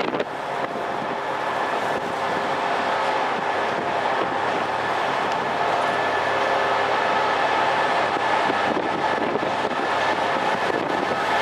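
Class 67 diesel-hauled passenger train pulling out along the platform: a continuous rumble of the coaches rolling past, with steady engine tones that slowly grow louder and rise a little in pitch.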